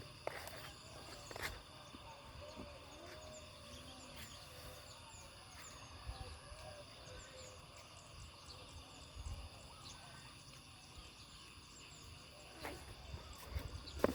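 Faint outdoor ambience with small birds chirping here and there, a thin steady high tone, a low rumble and a few sharp clicks.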